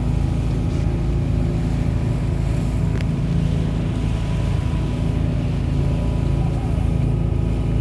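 Charter boat's engine running steadily, a low drone with one brief click about three seconds in.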